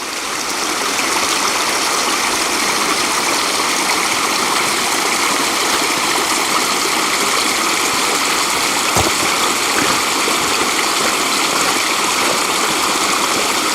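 Steady rushing of water falling down a mountain waterfall, fading in over the first second, with one brief click about nine seconds in.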